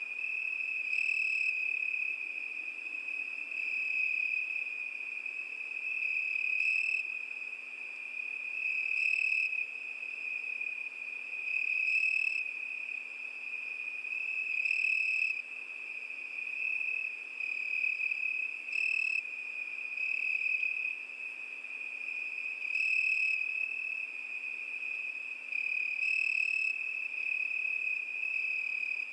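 Cricket song: a continuous high-pitched trill that swells and eases every two to three seconds.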